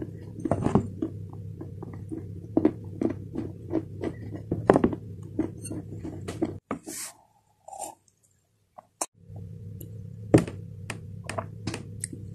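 A person chewing crunchy pieces of dry clay close to the microphone: a quick series of sharp crunches over a steady low hum. About six and a half seconds in, the sound drops out for a couple of seconds, apart from a brief hiss, before the crunching starts again.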